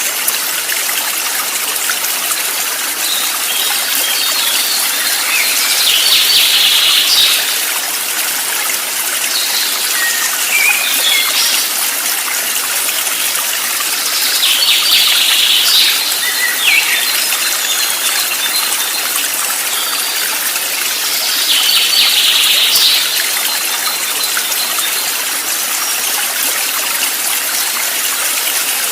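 Running water from a stream with a steady rushing hiss, and birds chirping in short bursts every few seconds.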